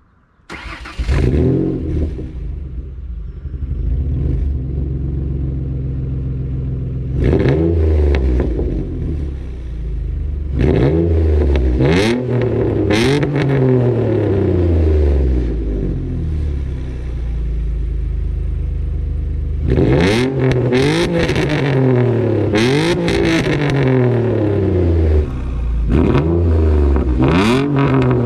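Decatted Ford Mondeo ST220's 3.0-litre V6 exhaust: the engine starts about a second in, then idles and is blipped several times, each rev rising and falling back to idle.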